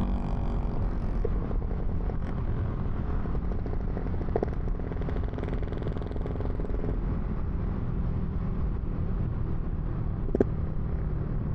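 Yamaha Y15ZR's 150 cc single-cylinder engine idling steadily through a big aftermarket exhaust, giving a low, even rumble.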